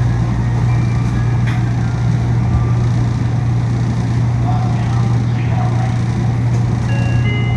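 Steady loud hum inside a Yui Rail monorail car: air-conditioning noise and the car's running sound, with a constant low drone.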